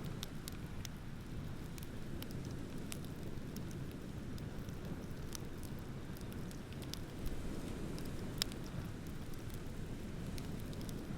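Beach bonfire of burning wood crackling, with many scattered small snaps and two louder pops about a second apart near seven to eight seconds in, over a steady low rush of ocean waves.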